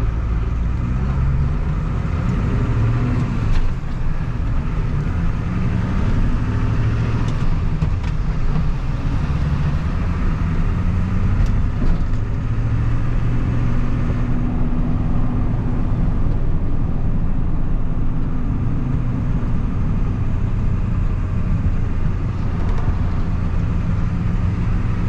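Engine and road noise inside a moving vehicle's cab, with the engine's pitch shifting up and down as it drives.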